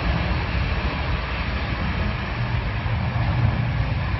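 Steady rumble and rushing noise of a moving passenger train, heard from inside the carriage.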